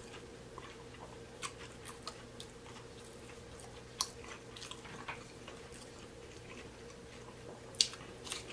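Close-miked chewing of fried seafood: quiet mouth sounds with scattered soft crunches and clicks, the sharpest about four seconds in and a few more near the end as another piece is bitten into.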